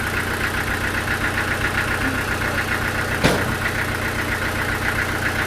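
Sawmill machinery running steadily, an engine-driven drone with a fast, even pulse. One sharp knock about three seconds in.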